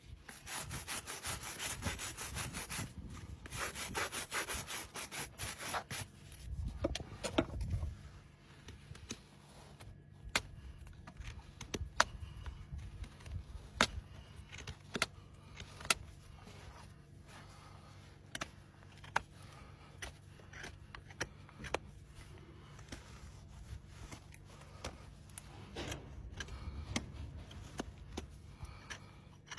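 Hoof rasp filing a horse's overgrown hoof in quick back-and-forth strokes for about six seconds, then stopping; after that, a few dull thuds and scattered sharp clicks.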